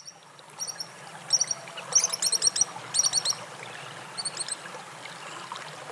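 Pied kingfisher calling: sharp, high chirps in quick groups of two to four, repeated every second or so.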